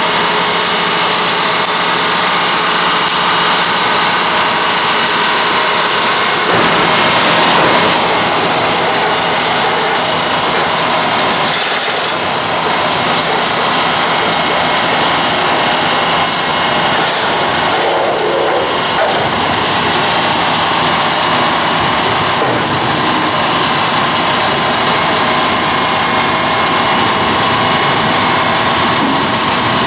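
Work train of flatcars rolling past at close range: a steady rumble and clatter of wheels on rail, with an engine running, a steady hum during the first six seconds or so.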